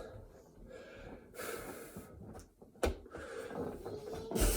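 A person breathing hard and heavily, winded after a set of burpees, with a sharp click about three seconds in and a thump near the end.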